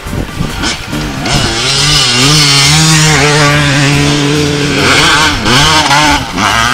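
Dirt bike engine revving: its pitch climbs about a second in, holds high and steady, then wavers and drops away near the end, over background music with a steady beat.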